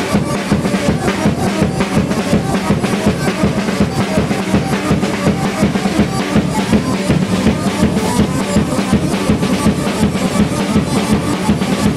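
Drum kit played in a fast, steady beat along with music.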